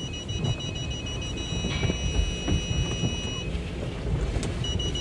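A vehicle's obstacle-proximity warning sounding a steady high continuous tone, set off by the car wash equipment closing in around the truck, over the rumble and spray of the car wash. The tone cuts off about three and a half seconds in and starts again near the end.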